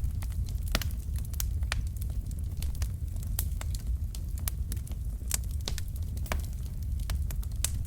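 Wood fire of burning logs crackling, with irregular sharp pops and snaps over a steady low rumble of the flames.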